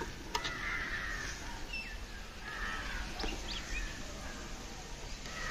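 Birds calling, with a few short chirps about three seconds in and a light click shortly after the start.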